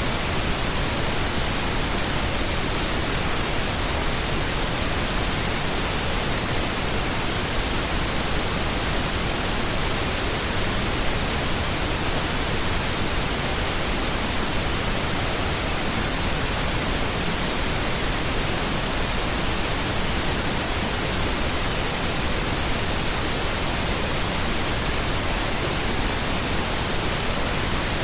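Steady pink noise: an even, unchanging hiss with its weight toward the low end, like a constant ocean-like rush.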